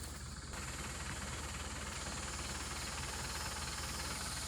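A steady mechanical running sound with a fast, even low pulse under a broad hiss, like an engine idling.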